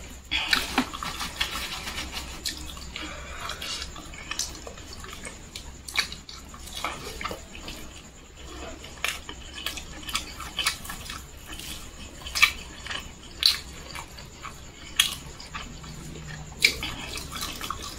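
Close-miked wet chewing and lip-smacking as a person eats fried chicken and rice, with many irregular sharp mouth clicks over a faint low hum.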